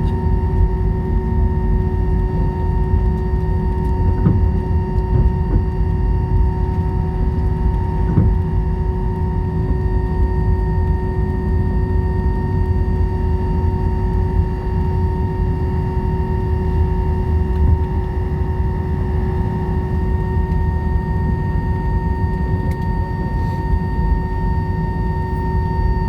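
Airliner cabin noise after landing: a steady low rumble from the running jet engine, with steady whine tones above it.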